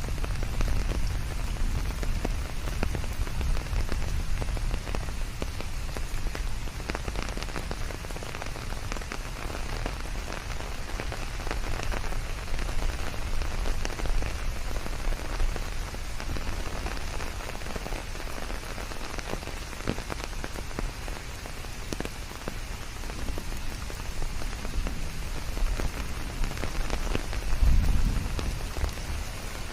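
Steady rain falling on leaves, with many separate drops pattering close by over an even hiss. A low rumble swells briefly near the end.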